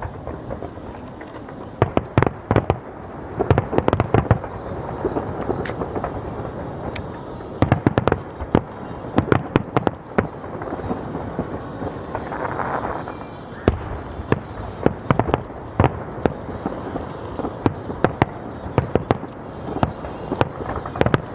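A fireworks display: aerial shells bursting repeatedly, with clusters of sharp bangs in quick succession over a continuous rumble of explosions and crackle.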